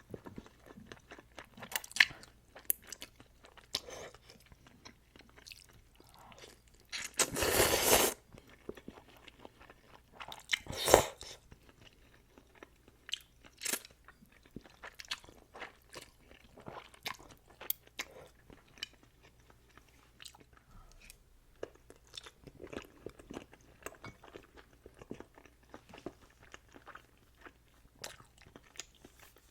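Close-miked eating of Shin Ramyun noodles with egg: steady chewing with many small wet mouth clicks, and two louder sounds about a second long, about seven and eleven seconds in, typical of slurping noodles.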